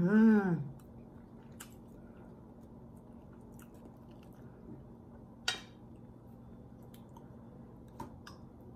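Close-miked chewing and mouth sounds of someone eating jerk pork, opening with a short two-note hum. A few sharp clicks follow, the loudest about five and a half seconds in.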